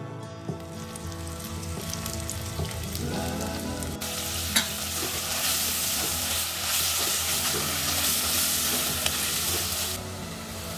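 Onions, tomatoes and spices frying in an earthenware clay pot, sizzling as they are stirred with a wooden spatula that scrapes and knocks against the pot. The sizzle gets much louder about four seconds in, with a sharp knock just after, and drops back near the end.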